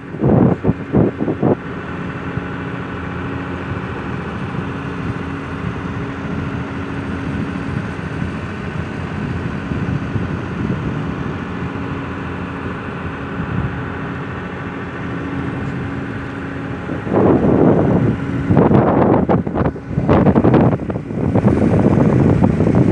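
Fishing boat engine running at a steady, even pitch, with gusts of wind buffeting the microphone briefly at the start and again through the last few seconds.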